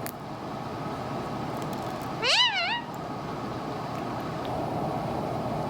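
Indian ringneck parrot giving one short, soft, meow-like "meh" call about two seconds in, its pitch rising, dipping and rising again, over steady background hiss; a second call starts right at the end. It is the quiet, cute call being trained to replace its harsh alarm call.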